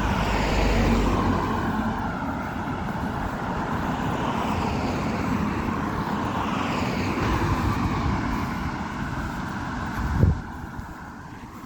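Street traffic: motor vehicles passing close by, their noise rising and falling as they go. About ten seconds in there is a short low thump, after which the traffic sounds quieter.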